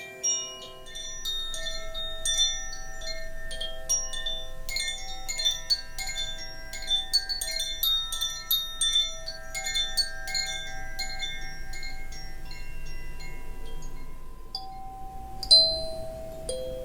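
Wind chimes tuned to C major, swung so their clappers strike many overlapping, long-ringing notes, with a louder strike near the end.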